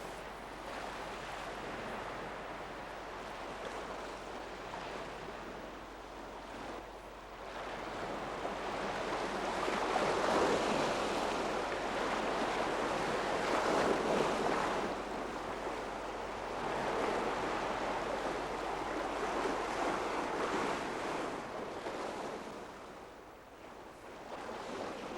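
Sea surf washing up a beach, swelling louder through the middle and easing off near the end.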